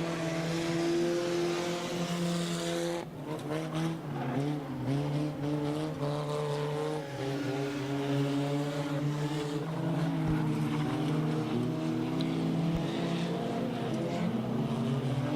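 Junk race cars running laps of the oval, several engines at once rising and falling in pitch as the field goes by.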